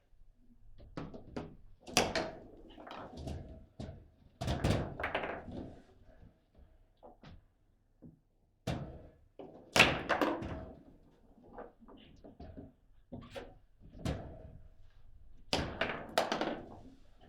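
Table football in play: the ball struck by the players on the rods and knocking against the table walls, with the rods banging. An irregular run of hard knocks and thuds, loudest about 2, 10 and 16 seconds in.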